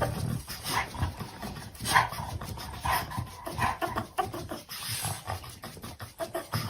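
A dog making short panting and whining sounds, among irregular clicks and knocks.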